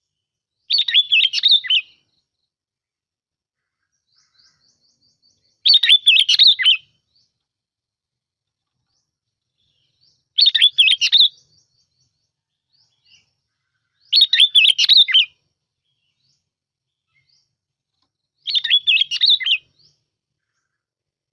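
Bông lau bulbul singing: five short, bubbly song phrases about four seconds apart, each lasting about a second.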